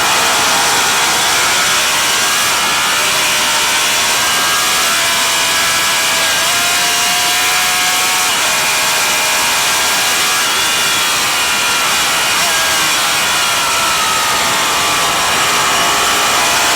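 Vintage racing motorcycle engine running hard, its pitch climbing and dropping over several seconds as the throttle opens and closes.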